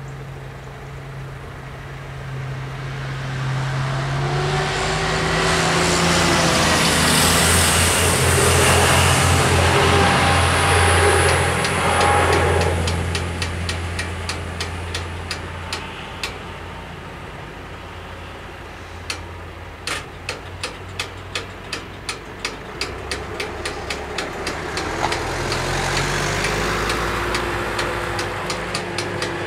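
A train passes over the level crossing: it swells to its loudest about eight to ten seconds in, with a high whine over the running noise, and fades a few seconds later. Later the crossing's bell rings in a run of single sharp strokes that come faster and faster as the barriers lift, with vehicle engines idling underneath.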